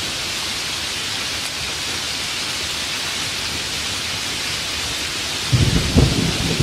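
Steady hiss of heavy rain falling. About five and a half seconds in, a deep crackling rumble of thunder breaks in over the rain and keeps rolling.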